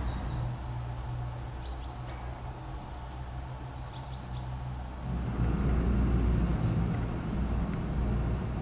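Low rumble of road traffic, growing louder about five seconds in as a vehicle passes. A few short, high bird calls come through faintly, twice.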